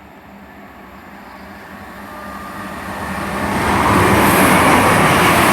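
Chiltern Railways Class 168 Clubman diesel multiple unit approaching and passing through the station at speed. Its rush of engine and wheel noise grows louder over the first few seconds and stays loud near the end as the train goes by.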